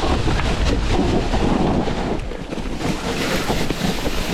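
Heavy wind buffeting and rushing on an action camera's microphone while moving fast, easing briefly a little past halfway.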